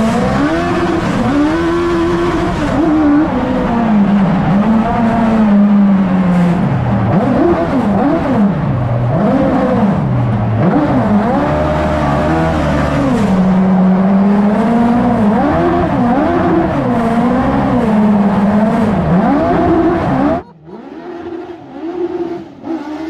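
Dual Suzuki Hayabusa motorcycle engines in a mini truck run hard, the revs swinging up and down again and again with tire squeal, as in donuts. About twenty seconds in the sound drops suddenly to a quieter, steadier engine note.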